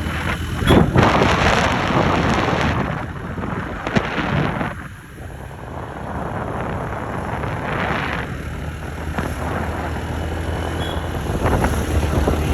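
Wind buffeting the microphone: a rumbling rush that swells in gusts and dips briefly about five seconds in.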